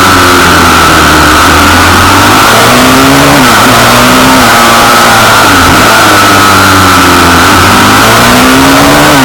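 Pit bike engine revving hard, its pitch climbing and dropping back about four times in a row. Very loud throughout.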